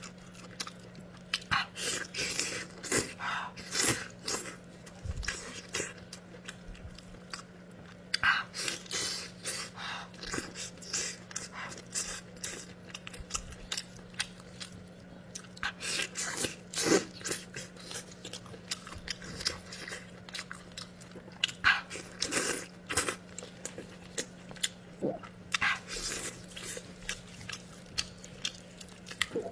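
A person eating close to the microphone: irregular bites and chewing with wet mouth clicks and smacks, some louder than others, over a faint steady hum.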